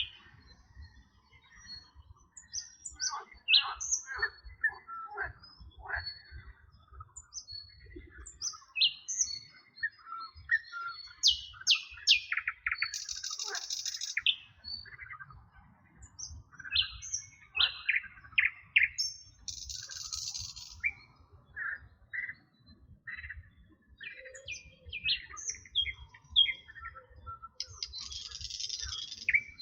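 Several songbirds chirping and singing, with short overlapping whistles and chirps throughout. Three harsh, hissy calls about a second long stand out, around halfway through and near the end.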